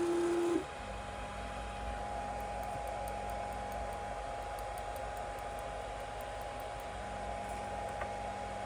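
3D printer's fans running with a steady hiss and a constant whine. A loud steady tone that was already sounding cuts off about half a second in.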